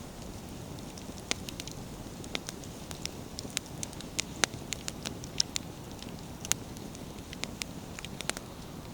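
Wood fire burning, crackling with irregular sharp pops of firewood over a steady low rush.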